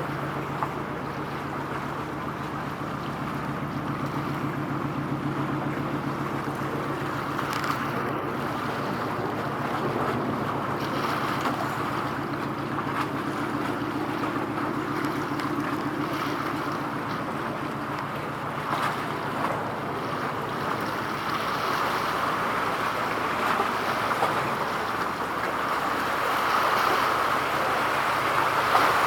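Steady low drone of a vessel's engine over rushing wind and water noise. The engine hum fades out about two-thirds of the way through while the rushing grows louder.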